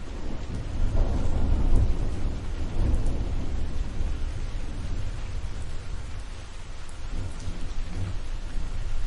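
Rolling thunder of an approaching thunderstorm over steady rain. A long low rumble swells about a second in and fades over the next few seconds, and a weaker rumble follows near the end.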